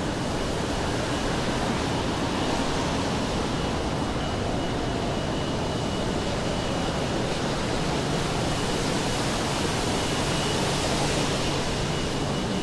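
Steady rainfall on a wet city street, an even hiss, with a faint high steady whine running through it; the hiss swells a little about ten seconds in.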